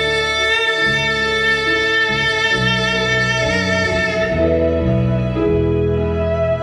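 Live band playing the closing bars of a rock ballad: a lead guitar holds a long vibrato note over a moving bass line, and the note's bright top fades away about four seconds in.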